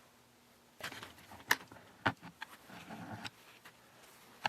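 Scattered light clicks and knocks with some rustling, from hand tools and the plastic parts of a chainsaw being handled during teardown. The sharpest click comes near the end.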